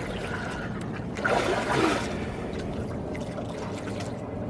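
Water splashing and trickling, with a louder splash a little over a second in.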